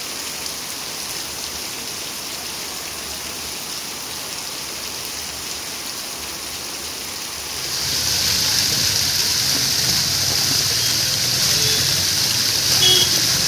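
Heavy rain falling steadily on a street. About eight seconds in it gives way to a louder, hissier rush of water as rainwater streams down stone steps.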